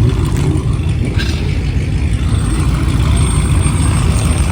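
A vehicle engine running steadily with a loud, low rumble, and a faint high whine coming in about halfway through.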